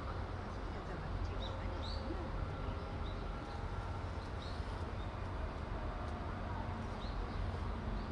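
Short, high bird chirps scattered every second or so over a steady low background hum.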